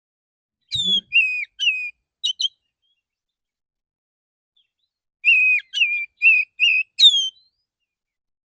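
Male oriental magpie-robin singing its relaxed calling song: two short phrases of clear whistled notes, some gliding down in pitch, the first about a second in and the second about five seconds in, with silence between.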